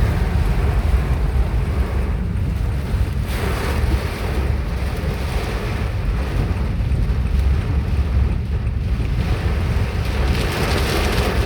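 Strong wind gusting in a hailstorm and buffeting the microphone in a heavy low rumble, over a steady hiss of rain and hail.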